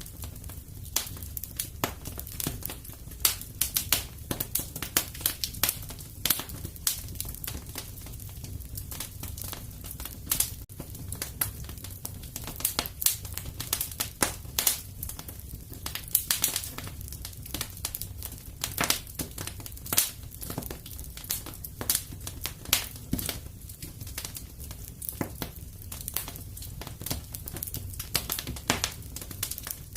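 Wood fire in a fireplace crackling, with many irregular sharp pops and snaps over a steady low rumble of burning.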